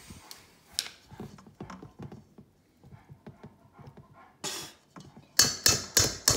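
Light clinks and taps of a spoon in a mixing bowl, then from about five seconds in a fast, even knocking, about three or four strikes a second, as the dough is beaten hard with the spoon.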